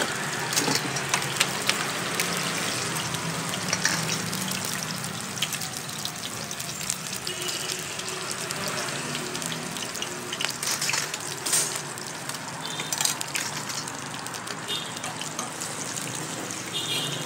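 Batter frying in oil in the wells of a cast-iron bánh khọt pan, a steady sizzle, with scattered light clinks of a metal ladle and tongs against the pan.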